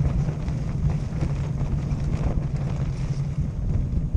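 Wind buffeting the microphone aboard a sailboat under way, over a steady low drone.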